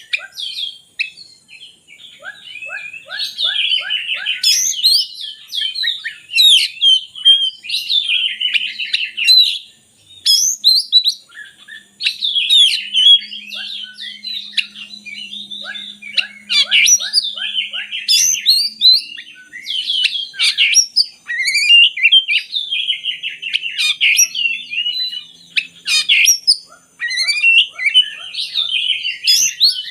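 Oriental magpie-robin (kacer) singing a long, varied song of whistles, quick chattering notes and short runs of rapidly repeated strokes, with a brief pause about ten seconds in.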